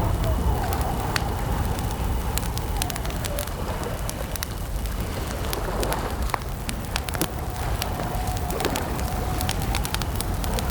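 Campfire crackling with scattered sharp pops over a steady low rumble, while a bird gives long, drawn-out calls in the background.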